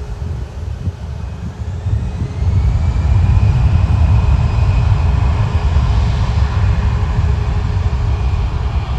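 Jet airliner flying low overhead to land. Its engine rumble builds to its loudest about two and a half seconds in, over a whine that rises in pitch and then holds.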